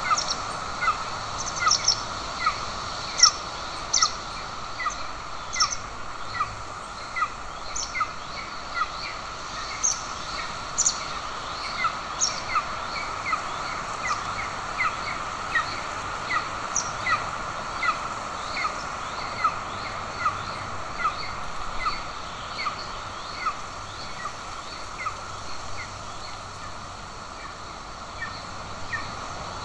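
Golden eagle chick giving thin, repeated begging peeps, each a short falling note, about one to two a second, over the steady hiss of a nest-camera microphone.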